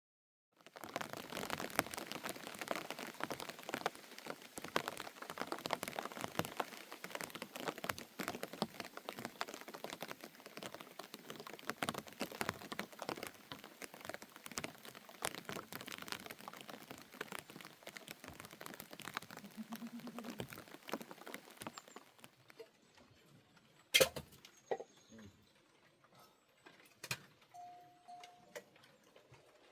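Rain pattering, dense and steady with many fine drop clicks, then easing off about 22 seconds in to scattered drips and clicks, with one sharp knock soon after.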